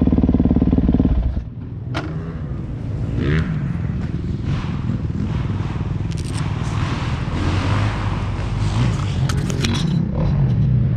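A nearby engine running steadily cuts off suddenly about a second in. Afterwards a lower vehicle engine rumble continues, with scattered knocks and scrapes.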